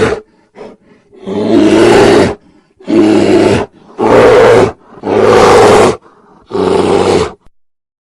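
A large animal roaring in a series of loud, rough calls, each about a second long, coming one after another about every second.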